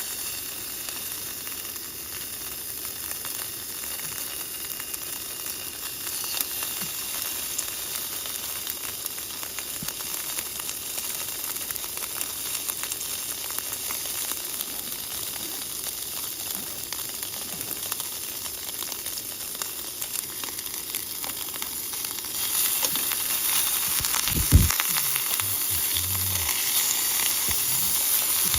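Salted beef sizzling as it cooks over the camp fire, a steady hiss that grows louder near the end. One brief knock near the end.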